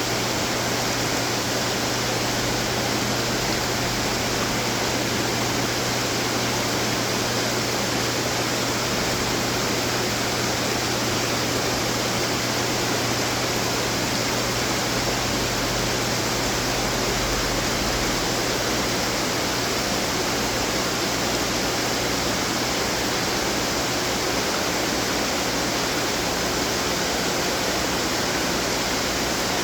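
Water running and splashing from many garden fountains at once, a steady noise with a low steady hum underneath.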